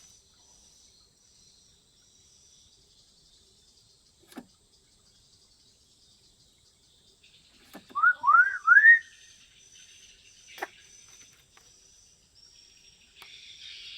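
African grey parrot giving three quick rising whistles, each starting a little higher than the last, with a sharp click before and after.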